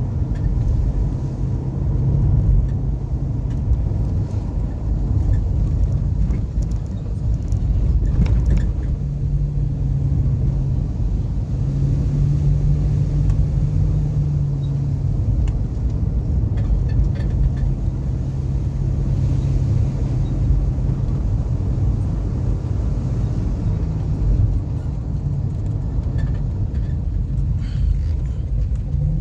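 A car driving: a steady low rumble of engine and road noise, with the engine note shifting slightly now and then.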